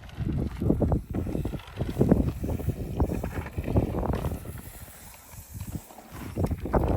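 Strong wind buffeting the microphone in gusts, easing briefly about five seconds in and picking up again near the end.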